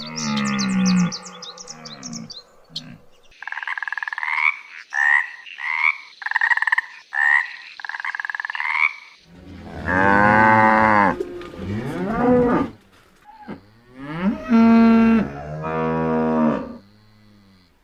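A series of separate animal calls: about six short calls repeated in a row, then two long low calls of about three seconds each, like cattle mooing.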